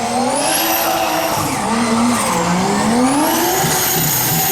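Subaru drift car's engine revving up and falling back repeatedly through a drift, with tyres squealing and a high whine that rises and falls.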